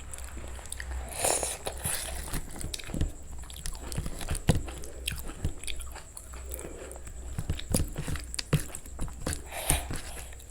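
Close-miked eating: a person chewing food with wet mouth clicks and occasional crunches, in an irregular run of small sounds throughout.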